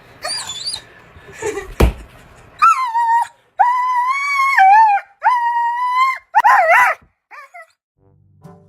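A dog vocalizing loudly. It opens with high, wavering whines; a sharp knock comes just before two seconds in. Then come three long, steady howls and a shorter wavering one near the end.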